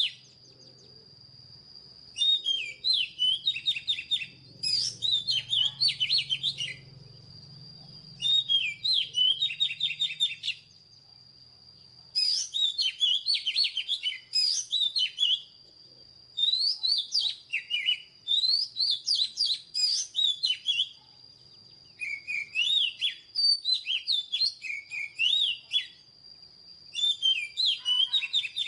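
Oriental magpie-robin singing: bursts of quick, varied whistled phrases a few seconds long, separated by pauses of about a second. A faint steady high thin tone runs underneath.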